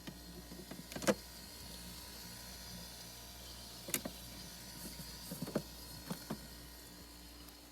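Scattered clicks and knocks over a faint steady hum, the loudest knock about a second in.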